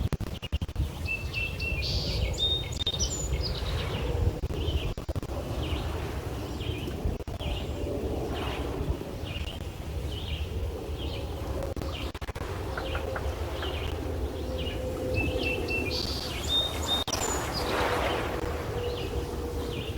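Birds chirping and singing throughout, with one longer song phrase heard about two seconds in and again near the end. Beneath them runs a steady low outdoor rumble, and a faint steady hum comes in about halfway through.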